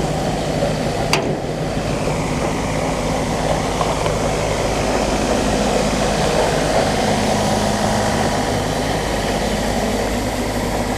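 Combine harvester running steadily under load, a continuous machine hum with a single sharp click about a second in.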